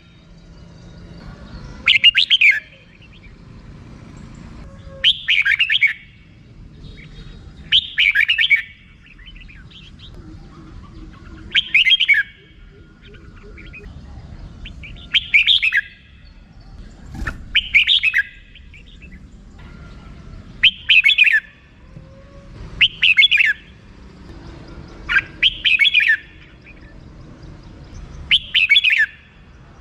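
Red-whiskered bulbul giving its chattering 'rik' call in short bursts, roughly one every two to three seconds.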